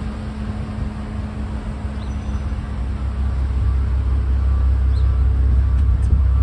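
Bentley Continental GT's W12 engine idling: a steady low rumble that grows louder over the second half.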